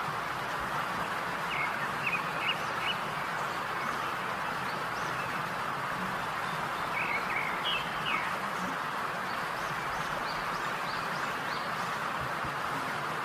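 Steady sizzling of food frying in hot oil, with small clusters of quick crackles about two seconds in and again about seven seconds in.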